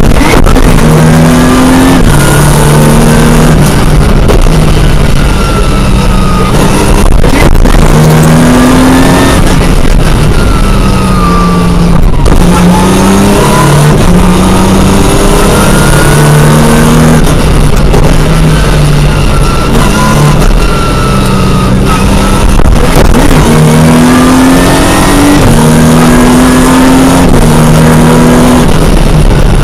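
Opel Ascona rally car's engine heard very loud from inside the cockpit while it is driven hard. The engine note climbs again and again and drops back at each gear change or lift.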